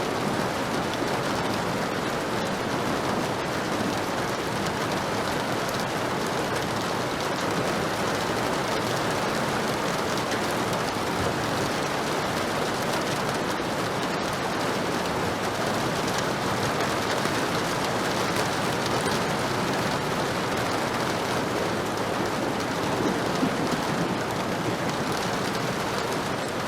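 Steady heavy rain falling and pattering on surfaces, an even unbroken hiss.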